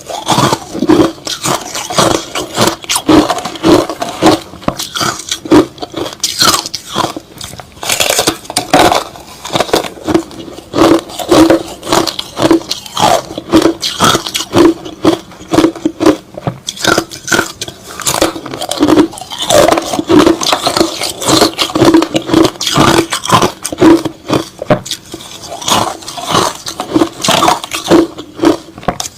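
Close-miked chewing of crushed ice slush, a steady run of crunchy, crackling chews about two a second.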